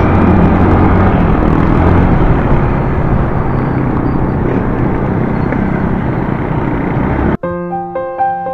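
Heavy wind noise buffeting a motorcycle rider's action-camera external microphone, with the motorcycle's engine droning steadily underneath. The noise cuts off abruptly near the end and piano music takes over.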